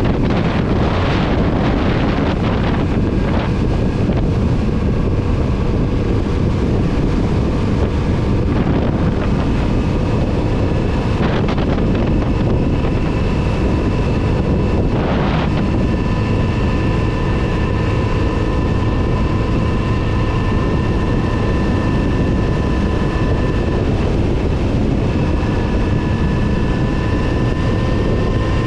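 Kawasaki Z900RS inline-four engine running while the motorcycle is ridden, heard onboard under heavy wind noise on the microphone. From about halfway through, the engine holds a steady note that climbs slightly near the end.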